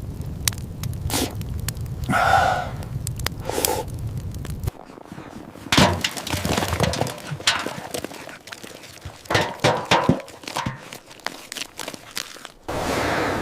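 A series of sharp cracks and knocks, irregular and clustered, with a steady low rumble under the first few seconds that stops suddenly.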